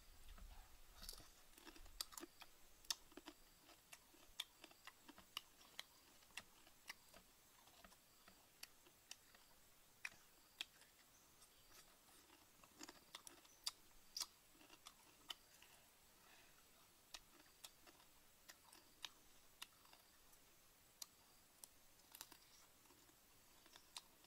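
Faint, irregular crunching clicks of someone chewing cooked insects, over a quiet background.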